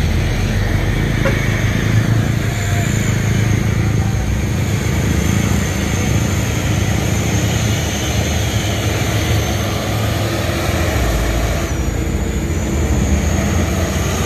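Heavy truck engine running steadily, with road traffic noise.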